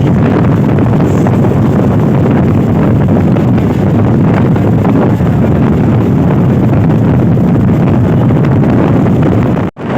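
Train running at speed: a loud, steady rumble with wind buffeting the microphone. The sound cuts out for an instant just before the end, then carries on.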